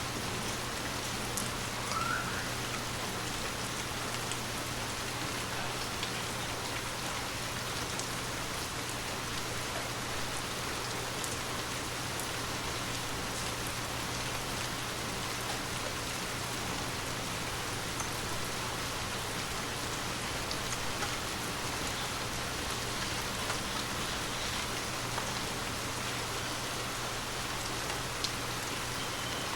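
Gentle rain falling steadily, with scattered individual drops ticking through an even hiss.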